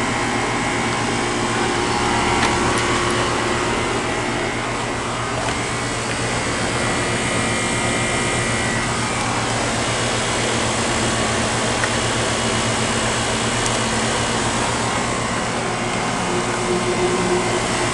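Outdoor air-conditioning condensing unit running: a steady fan rush with a low, even hum underneath.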